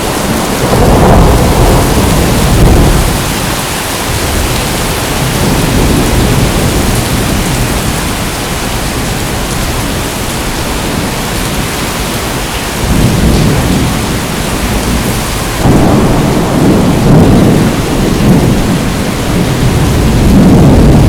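Steady heavy rain with rolling thunder rumbling underneath: a rumble at the start, another about two-thirds of the way in, and a longer, louder one near the end.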